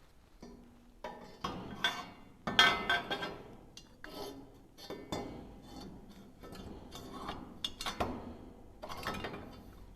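Steel transmission crossmember being fitted up to a truck frame: irregular metal-on-metal clanks and scrapes as it is handled into position, some with a brief ring, the loudest clank about two and a half seconds in.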